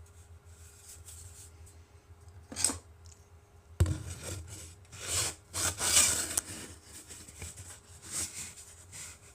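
Hand work on a rocket booster tube: short scraping and rubbing strokes, loudest about five to six and a half seconds in, with a sharp knock a little before four seconds in.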